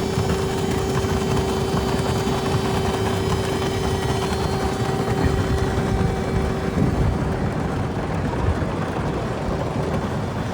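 A machine running steadily: a constant low rumble with a held hum over it that stops about two-thirds of the way through.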